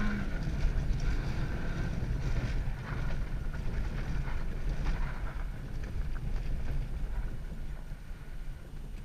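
Car engine and tyres on ice, heard from inside the cabin while drifting. A held high-rev engine note drops away just after the start, then the engine runs lower under a steady low rumble of tyre and ice noise, easing off near the end.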